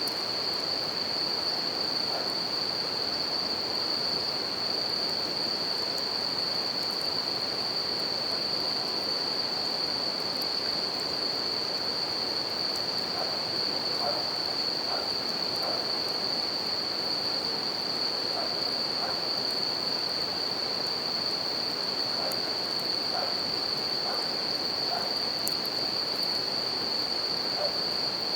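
Bell crickets (suzumushi) singing as one steady, high, unbroken ring over the even rush of a river, with a few faint crackles from a wood campfire.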